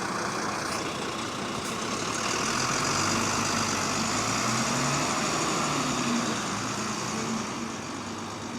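Diesel engine of a Wright Gemini 2 double-decker bus (WVL type) pulling away, its pitch rising as it accelerates, then fading near the end. It revs a bit higher than usual, which the listeners take for an engine remapped to a power mode.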